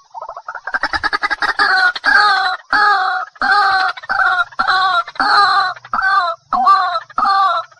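A waterhen calling over and over: a quick run of short notes begins just after the start, then settles into loud, harsh, repeated calls about two a second.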